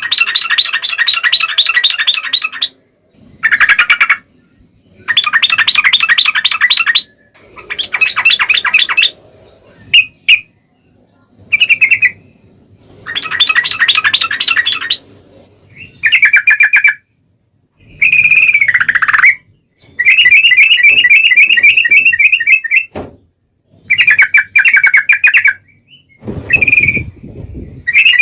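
Yellow-vented bulbuls (trucuk) singing: repeated bursts of rapid chattering calls, each a second or two long, separated by short pauses. A brief low thud comes near the end.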